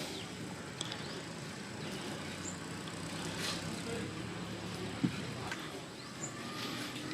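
Outdoor wetland ambience: a low steady hum, with short high chirps recurring every few seconds and a single sharp knock about five seconds in.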